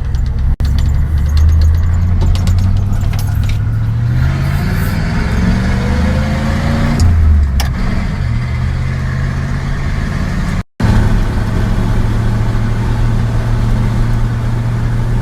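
1981 Chevy K10 pickup engine under way, pitch climbing as it accelerates, dropping at a gear change about seven seconds in, then running steadily at cruise; freshly tuned with a new carburetor and distributor. The sound cuts out for an instant twice.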